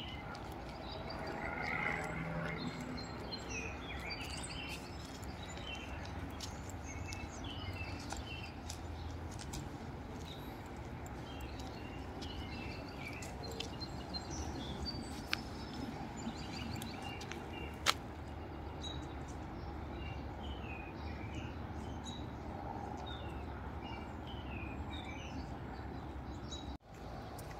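Small birds chirping and calling in short, repeated phrases over steady outdoor background noise, with a sharp click about 18 seconds in.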